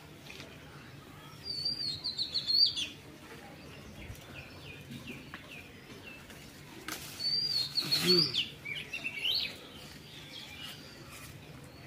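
A bird chirping in two bursts of quick, high notes, the first about a second and a half in and the second around seven seconds in.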